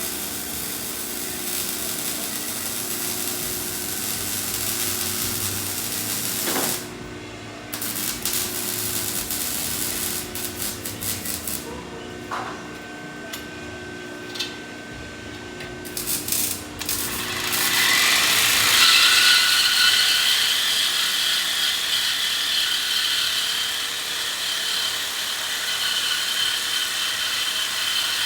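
Power tools working on a car's exhaust in a shop, stopping and starting, then about two-thirds of the way through a louder, steady, high-pitched cutting sound that keeps going.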